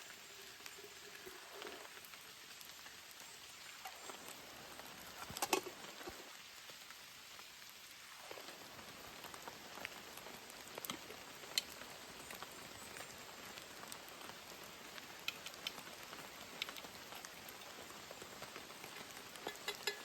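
Steady rain falling as a soft, even hiss, with scattered sharp drips and taps. One louder tap comes about five and a half seconds in.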